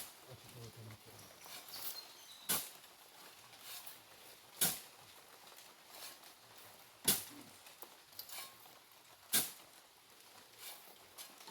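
Shovel strokes into sand, a sharp scrape-and-strike about every two and a half seconds, six in all, as sand is dug up and thrown.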